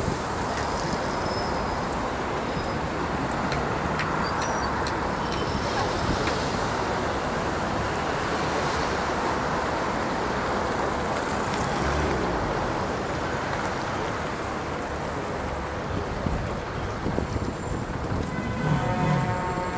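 Steady rushing wind and water noise aboard a moving boat, with wind buffeting the microphone; voices come in near the end.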